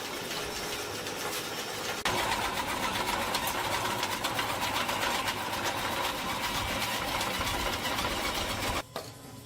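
A small motor running steadily with a fast pulsing rattle. It gets louder about two seconds in and cuts off abruptly near the end.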